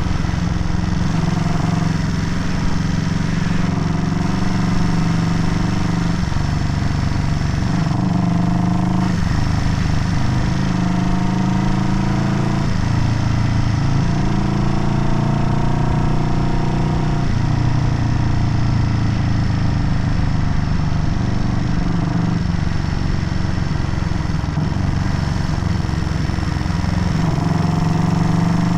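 Vintage Honda CB parallel-twin motorcycle engine on the move, pulling through the gears. The note climbs and drops back at each shift, several times over.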